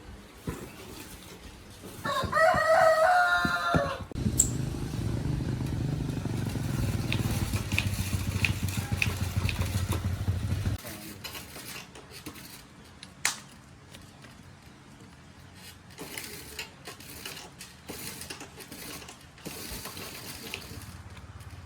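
A rooster crows once, loudly, about two seconds in. Right after, a steady low hum runs for about seven seconds and cuts off suddenly, followed by a few faint clicks and taps.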